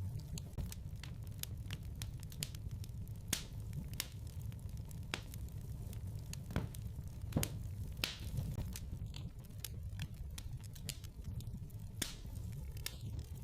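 Fire in a fireplace crackling: irregular sharp pops and snaps, a few a second, over a steady low rumble of the flames, with a louder pop about seven seconds in and another near the end.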